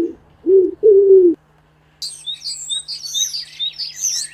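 Pigeon cooing: four low, steady coos in the first second and a half. After a short pause comes a run of high, quick chirps from a small bird.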